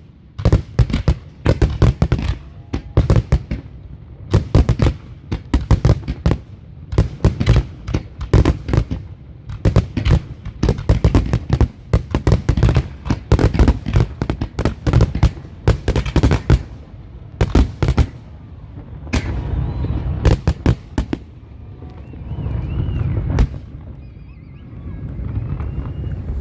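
Fireworks finale: a rapid barrage of shell bursts and crackles, several bangs a second. After about eighteen seconds it thins out to a few scattered bangs over a continuing rumble.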